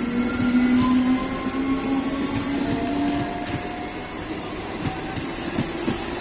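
Electric multiple-unit local train with Medha coaches passing close by, its wheels clicking over the rail joints. The electric traction motors whine steadily, rising slightly in pitch.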